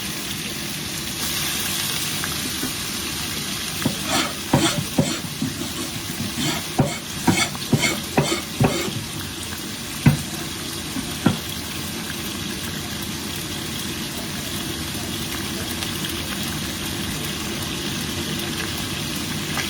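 Chopped chicken drumstick pieces frying in hot oil in a wok, a steady sizzle. From about four to eleven seconds in, a run of sharp knocks and clacks cuts through the sizzle.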